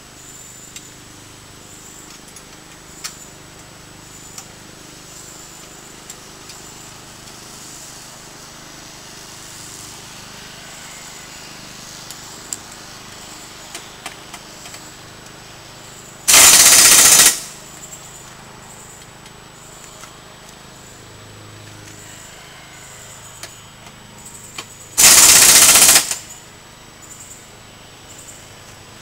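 Impact wrench hammering in two short bursts of about a second each, the second near the end, driving home the mounting bolts of an ATV exhaust. Faint clicks and knocks of handling parts in between.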